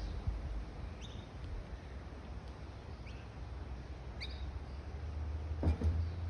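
A few short, high rising bird chirps over a low steady hum, with a couple of dull knocks near the end.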